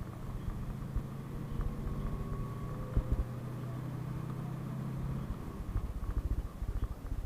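PAZ-32054 bus's V8 petrol engine running with a steady low hum, heard from inside the cabin. About five seconds in the hum drops away, leaving low, uneven rumbling and thumps from the bus riding over the road.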